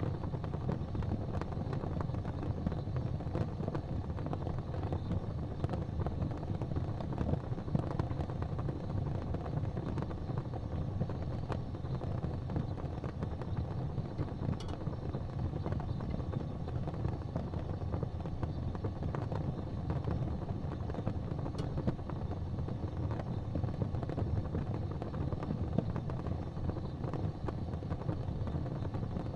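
Fire burning in a fireplace: a steady low rumble of flame with frequent small crackles and pops throughout.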